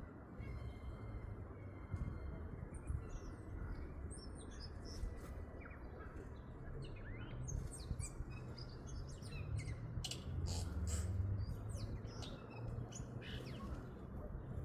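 Tui singing: a scattered run of short chirps, clicks and gliding whistled notes. A steady low rumble lies underneath.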